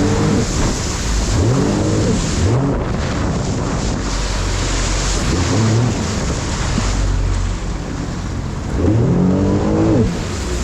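Jet ski engine revving up in several quick rising surges, with a longer rise near the end, over steady wind and water rush.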